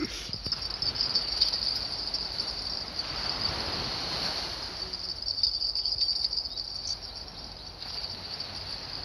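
Insects trilling steadily at a high pitch, with a soft rush of noise that swells and fades in the middle.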